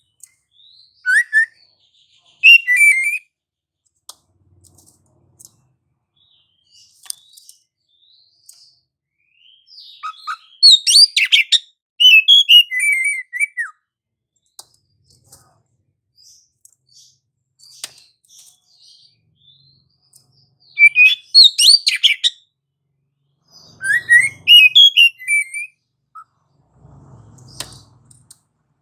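Oriental magpie-robin (kacer) singing loud, varied phrases of quick whistles and chirps. It comes in three bursts several seconds apart, with faint scattered notes in between.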